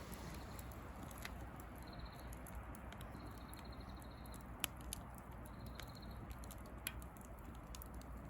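Bonfire of dry branches burning: a steady soft hiss with scattered sharp crackles, the loudest a little past the middle and another near the end.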